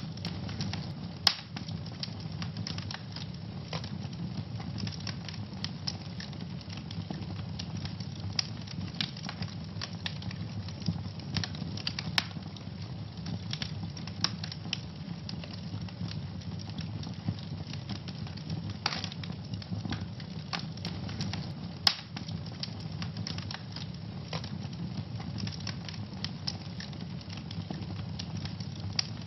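Wood fire burning in a fireplace, crackling with many small snaps and three sharper pops spread through, over a steady low rumble of the flames.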